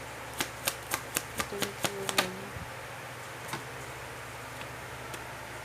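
Tarot cards being handled: a quick run of sharp clicks, about four a second, that stops after about two seconds, with a brief hum of a voice near the end of it. Then only a faint low room hum.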